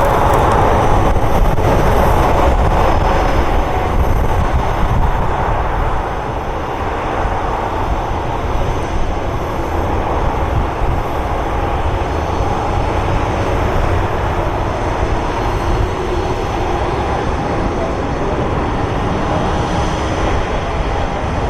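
Jet airliner engines running: a steady rushing noise with a faint high whine, a little louder for the first six seconds or so.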